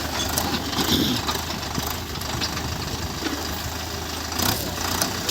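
Sonalika DI 55 RX tractor's 4087 cc diesel engine running steadily, with a couple of brief clicks near the end.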